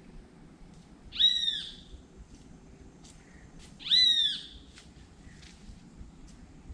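A bird calling: two loud, arched notes about three seconds apart, each rising then falling and lasting about half a second.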